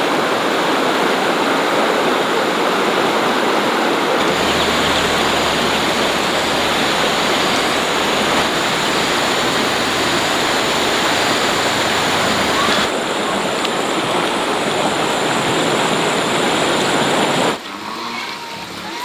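Loud, steady rush of water, with no distinct tones or strikes in it, that drops away sharply near the end.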